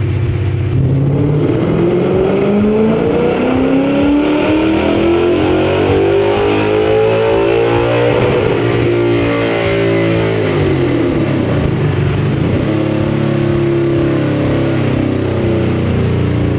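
Ford 5.0L Coyote V8 on a chassis dyno, making a pull in fourth gear: the engine note climbs steadily for about eight seconds, then the revs fall back over a few seconds and hold steady near the end.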